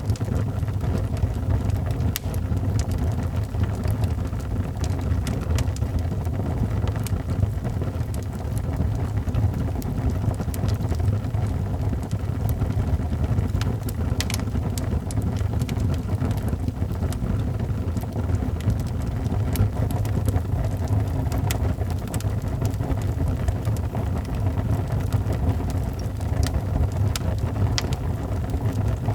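Fireplace fire crackling, with scattered sharp pops and snaps over a steady low rumbling noise.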